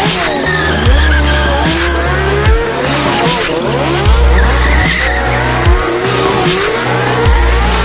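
Electronic dance music with a steady beat and deep bass, mixed with sport motorcycle engines revving up and down and tyres squealing as the bikes drift.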